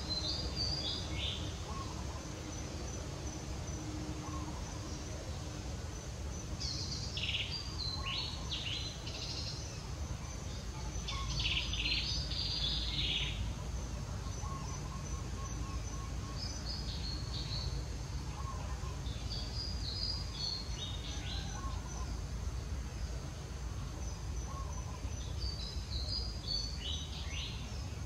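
A bird singing a short phrase of quick, stepped notes falling in pitch, repeated about every four to six seconds, over a steady faint high insect whine and a low background rumble.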